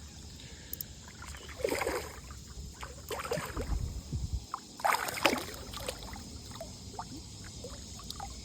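Water splashing and sloshing in irregular bursts while a hooked fish is played in shallow water. The loudest splashes come about two, three and five seconds in.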